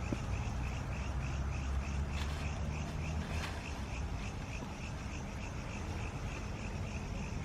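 Frogs or insects calling in a rapid, even, high-pitched pulse, about five pulses a second, over a steady low rumble.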